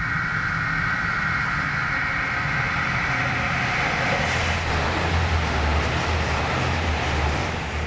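JR Shikoku 2000 series diesel railcar approaching and passing at speed. A high whine fades over the first few seconds, then a deep engine rumble and wheel clatter as the cars go by from about four seconds in, dropping away at the end.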